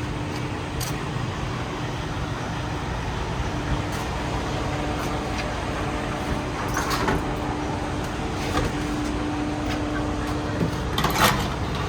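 Steady vehicle engine and traffic noise with a constant hum and a few scattered knocks and clatters, the loudest one near the end.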